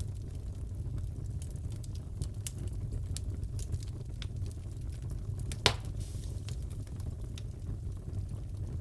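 Wood fire crackling in a fireplace: a steady low rumble with scattered small pops and one louder crack a little past halfway.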